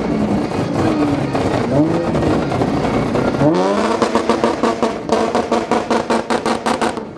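A car engine revved hard several times, its pitch rising and falling with each blip. After about three and a half seconds it is held high with a rapid stuttering pulse that quickens toward the end.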